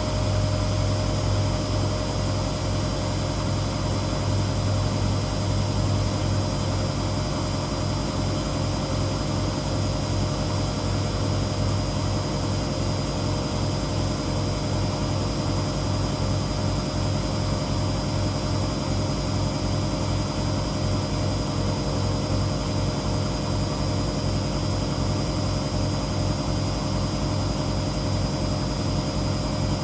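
Washing machine drum spinning at speed: a steady motor hum with a fast, even low pulsing and a thin high whine above it.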